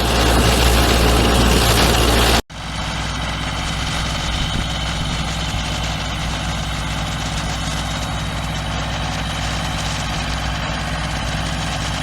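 Loud rushing noise with a deep rumble that cuts off abruptly about two and a half seconds in. After that, an engine idles steadily.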